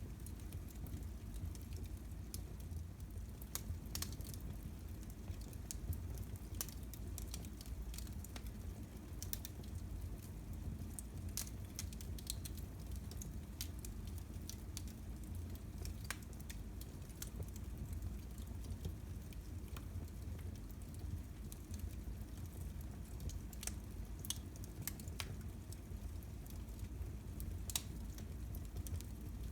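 Wood fire crackling in a fireplace: irregular sharp pops and crackles over a low steady rumble.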